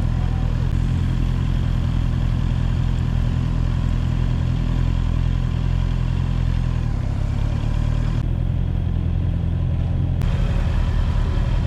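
Motorcycle engine running at a steady speed under even road and wind noise.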